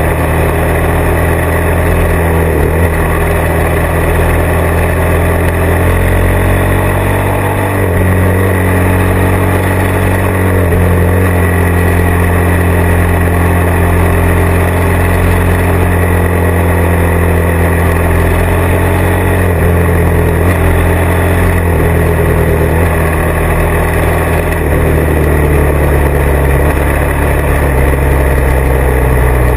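Motorcycle engine running under way, loud and steady. Its note steps to a new pitch several times as the throttle and gears change.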